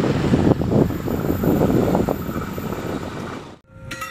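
Diesel-hauled passenger train passing close by on a curved track: a steady rumble of the train running on the rails. It cuts off suddenly near the end, giving way to steady tones.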